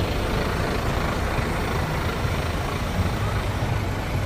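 Steady street noise with a low traffic rumble from passing vehicles.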